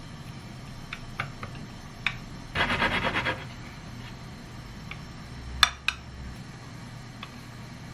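Kitchen handling sounds: scattered light clicks and taps of utensils and dishes, with a short rapid scraping burst lasting under a second about two and a half seconds in, and a sharp click a little past halfway.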